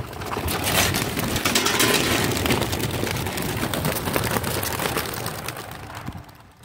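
A large flock of homing pigeons taking off together at release, a dense clatter of wingbeats that swells within the first second and fades away near the end.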